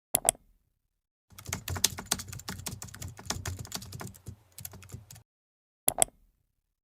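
Keyboard typing clicks: a pair of sharp clicks, then a fast run of key clicks for about four seconds, then another pair of sharp clicks near the end.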